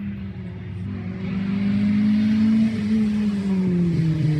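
Rally car approaching under power, its engine note rising and getting louder, then the pitch sliding down as it passes near the end.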